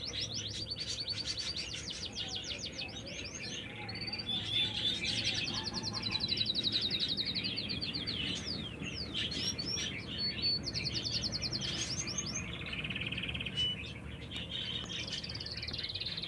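White domestic canary singing a long, continuous song of high, fast, evenly repeated trills, each run lasting a second or more before switching to a new phrase.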